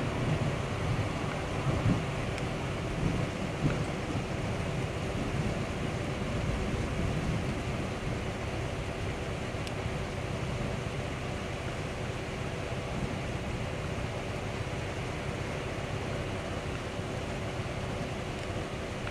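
Wind buffeting the microphone in a steady rush, with a few stronger gusts in the first few seconds and a faint steady hum underneath.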